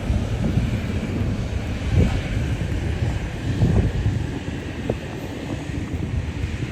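Wind on the microphone over a steady low rumble of jet aircraft at the airport, with a few brief louder gusts.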